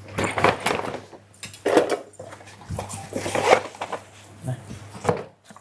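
Dishes and utensils clinking and clattering in a series of short, uneven knocks, with voices in the background.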